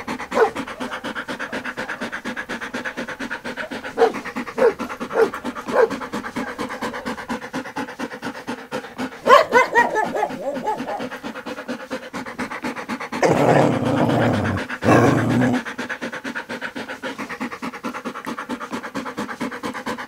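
Dog panting fast and steadily throughout, broken by a few short high calls about four to six seconds in and a sharper falling call at about nine seconds. A louder, rougher stretch of about two seconds comes a little past the middle.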